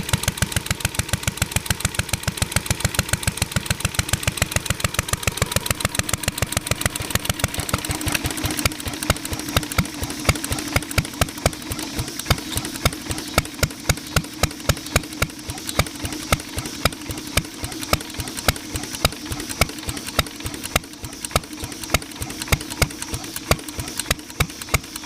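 Ideal Model V throttle-governed single-cylinder upright engine running, firing in a steady rapid train of exhaust beats; about eight seconds in the beats slow, grow louder and come less evenly. The engine is running unevenly, which the owners put down to the air being a little cool for its touchy carburettor.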